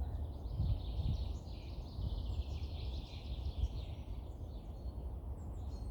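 Small birds chirping and twittering continuously over the even rush of a flowing stream, with a low rumble underneath.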